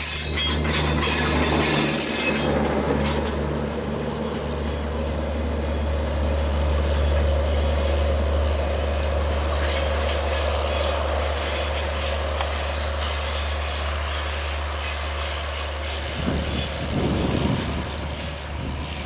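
Bangladesh Railway intercity passenger coaches rolling by on curved track: a steady loud rumble of steel wheels on rail, with wheel squeal. The sound thins a little near the end as the last coach moves away.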